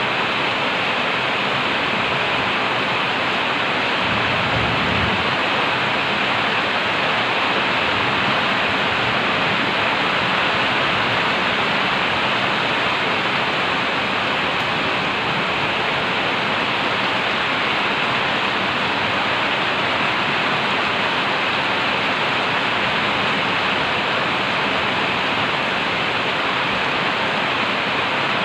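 Heavy rain pouring down in a steady, dense hiss, with a brief low rumble about four seconds in.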